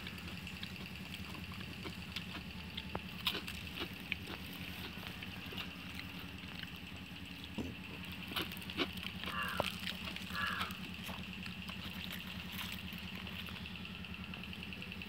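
Crisp clicks and crunches of fried banana flower pakoda being bitten and chewed. Underneath runs a steady low hum and a steady high whine.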